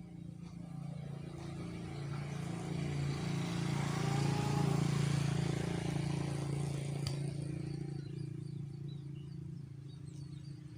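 A motor vehicle passing by. Its steady engine hum swells to a peak near the middle and then fades away.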